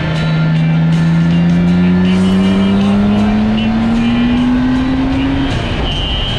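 Motorcycle engine pulling under throttle, its pitch rising steadily for about five seconds before it drops off, with wind rush throughout.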